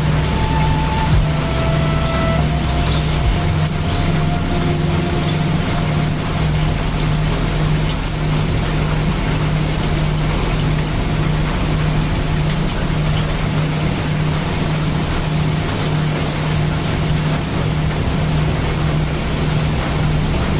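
Steady heavy rain mixed with brown noise: an even, unbroken wash of hiss and rumble with a low hum underneath.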